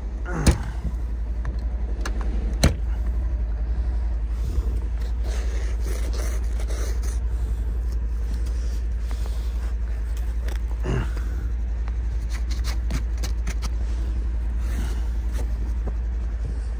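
A car engine idling with a steady low rumble while it warms up with the heater on, under the scraping of a snow brush clearing heavy snow off a vehicle. There are two sharp knocks in the first few seconds.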